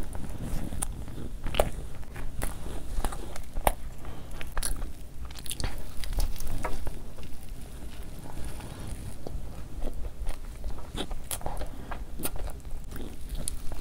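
Close-miked eating: a person chewing and biting food, with irregular sharp mouth clicks and smacks.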